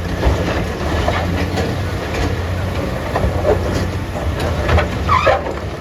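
Heavy diesel machinery running with a steady low rumble, with repeated knocks and clatter of rocks and steel throughout.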